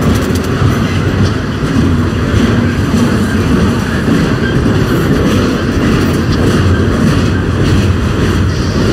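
Ringling Bros. circus train's loaded flatcars rolling past close by: a steady, loud rumble of steel wheels on rail with faint scattered clicks.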